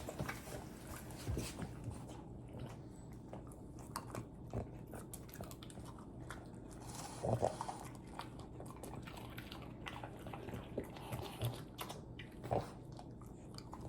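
A French bulldog chewing a treat: irregular small crunches and clicks of its teeth, with a louder crunch about halfway through.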